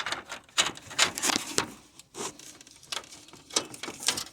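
Irregular clicks, taps and scraping as a rubber radiator hose is pushed onto its fitting and its metal clamp is worked into place by hand.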